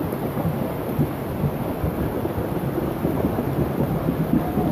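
Storm noise: a steady, dense rush of heavy rain, weighted toward the low end.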